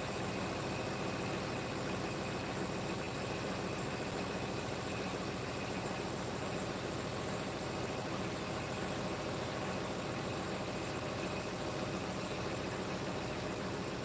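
A motor running steadily with a constant hiss.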